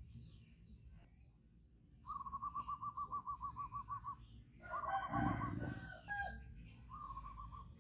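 A bird calling in fast trills of short, even notes, about eight a second: a two-second run, then two shorter runs. There is a low thump about five seconds in.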